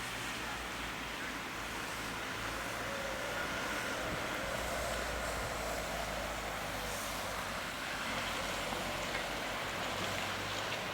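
A vehicle engine running steadily, a low even hum under a broad steady hiss.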